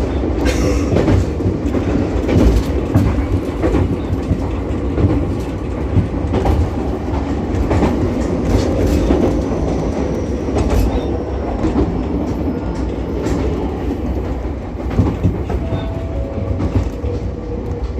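Ichibata Electric Railway 7000-series electric railcar running along the line, heard from inside the car at the front: a steady rumble with the clickety-clack of wheels over rail joints and scattered knocks. A faint steady tone comes in near the end.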